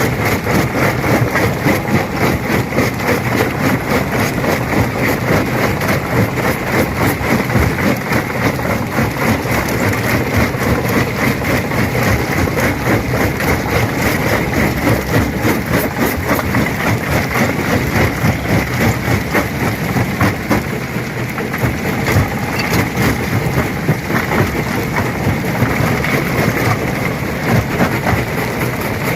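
Stone crusher running and crushing rock: steady heavy machine noise with a constant rapid cracking and clattering of stone being broken.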